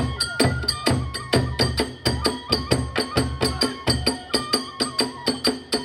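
Kagura ensemble music: a fast, even clashing of small hand cymbals, about five or six strokes a second, over drum beats, with a bamboo flute holding high notes. The drum drops back about four seconds in.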